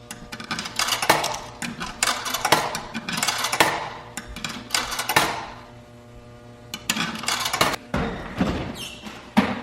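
Irregular knocks, clunks and clatter of handling as sneakers are loaded into a front-load washing machine, in uneven bursts with a quieter gap about halfway through.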